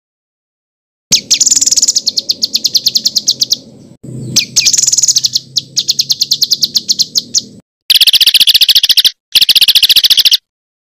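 A songbird singing harsh, rapid-fire chattering trills, the 'tembakan kasar' notes that masteran recordings are made to teach. The song comes in four bursts of fast repeated high notes, each lasting one to a few seconds and starting and stopping abruptly.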